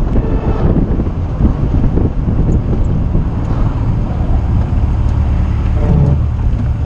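MG Midget with a swapped-in Rover K-series four-cylinder engine driving along, engine running under way with road and wind noise.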